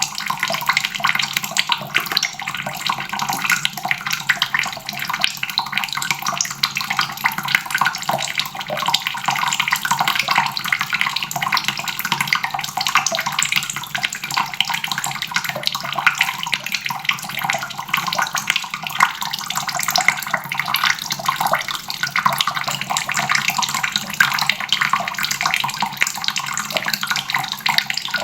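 Water running steadily from a tap into a basin, a continuous splashing stream that holds an even level.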